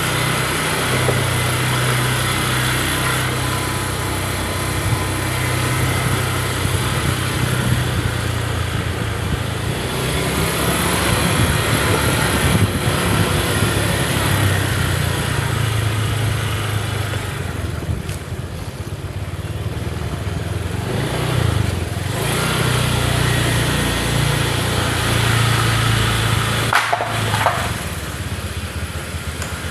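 Small motorcycle engine running steadily while riding, its pitch rising and falling a little, with wind and road noise over it; it eases off for a few seconds past the middle and briefly dips near the end.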